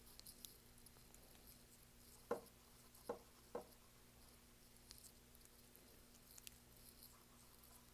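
Faint scratchy strokes of a paintbrush working acrylic paint onto a canvas, with three soft knocks a little over two to nearly four seconds in, over a low steady hum.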